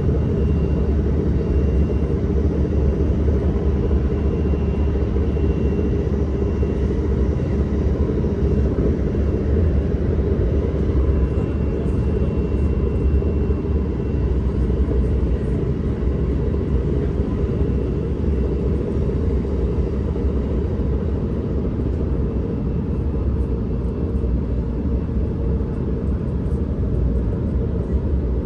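Steady running rumble of an S-Bahn commuter train on the move, with a faint thin high whine that comes and goes.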